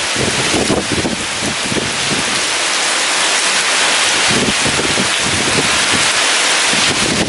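Heavy rain pouring steadily, with gusts of strong wind rumbling and buffeting the microphone.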